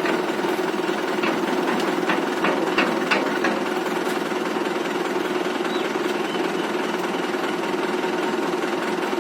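Tractor engine running steadily under load. A run of sharp clicks and knocks sounds over it from about one to three and a half seconds in.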